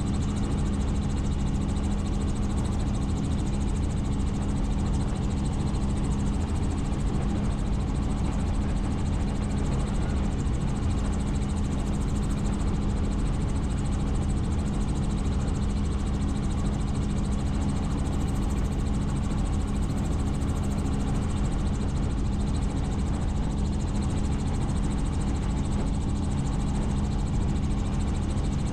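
Helicopter in flight: a steady drone of engine and rotor with a constant low hum, unchanging throughout.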